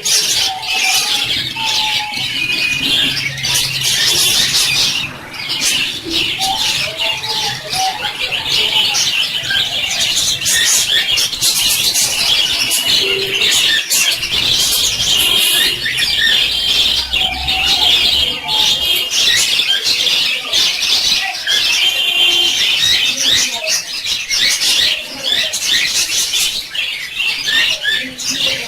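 Several small birds chirping and twittering together without pause: many overlapping short notes and rapid trills, with a few held whistled notes.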